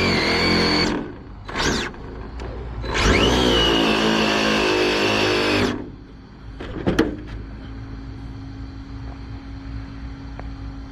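Losi 22S RC drag car's electric motor whining in a short blip about a second and a half in, then at full throttle for a pass of about two and a half seconds from about 3 s in, on a battery that is nearly flat. A couple of sharp clicks follow near 7 s, then a faint steady hum.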